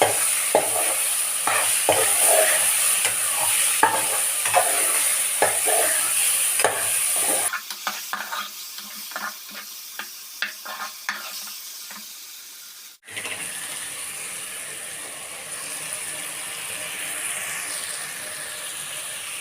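Chicken pieces frying in hot oil in a large karahi, sizzling loudly while a spatula stirs and knocks against the pan: the meat being fried dry before any water goes in. About midway the sizzle turns quieter with scattered spatula knocks, then after a brief break it settles into a steady, quieter sizzle.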